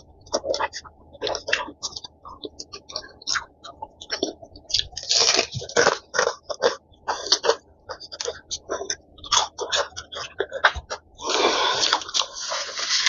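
Close-up eating sounds: chewing and crunching crispy fried chicken, with many short, wet mouth clicks. Denser crunching comes about five seconds in and again near the end.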